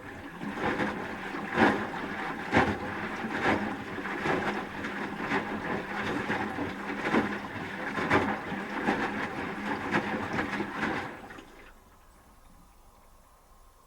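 Front-loading washing machine drum tumbling wet laundry in its final rinse, with water sloshing and a splash about once a second over a faint motor hum. The tumbling stops about eleven seconds in.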